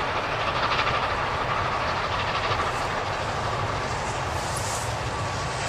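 A train running, with a steady, even noise.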